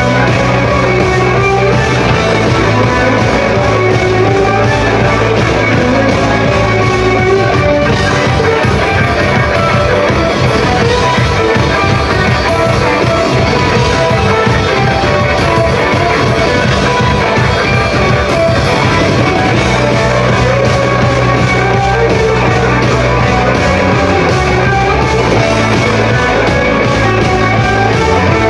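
Rock band playing live at full volume: electric guitar over a steady bass line and drums.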